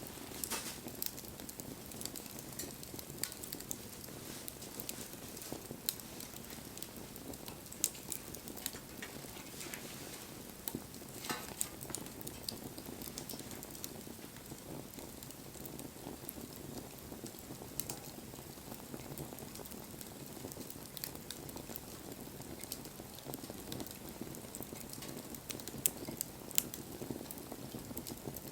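Wood campfire burning: a steady hiss with frequent small, irregular crackles and pops.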